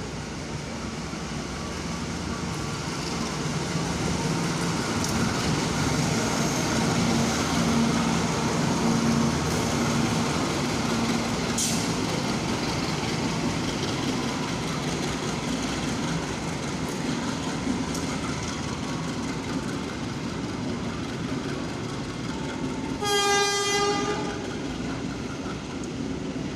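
A train running through the station, a steady rumble with rail clatter that swells and eases off, then a single short blast of the train's horn near the end.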